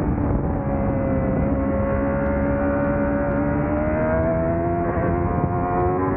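Honda CBR1000RR-R Fireblade's inline-four engine pulling hard under throttle, its pitch climbing steadily through the gear. There is a brief wobble about five seconds in, and the pitch drops near the end.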